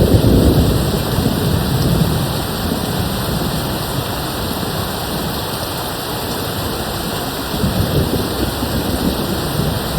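Steady rain falling, with low distant thunder rumbling in the first couple of seconds and again briefly near the end.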